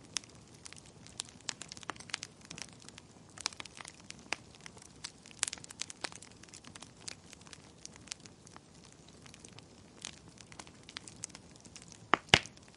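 Fire crackling in a fireplace: irregular sharp pops over a faint hiss, with two louder pops close together near the end.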